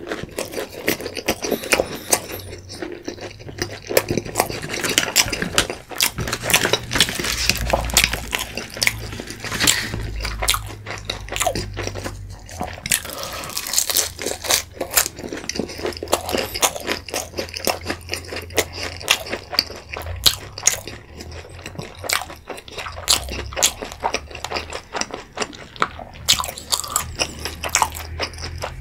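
Close-miked chewing of pizza: irregular crunching and wet mouth sounds of biting and chewing.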